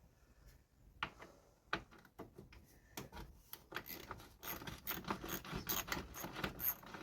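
Ratchet wrench clicking as 10 mm bolts are backed out. There are scattered clicks at first, then denser runs of quick ratcheting in the second half.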